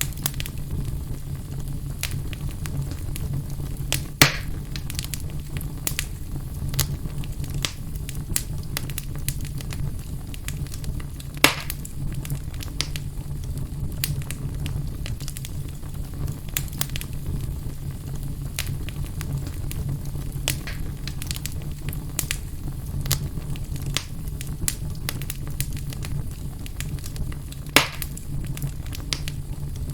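Fireplace fire burning, with a steady low rumble and continual small crackles, and three louder pops: about four seconds in, near the middle, and near the end.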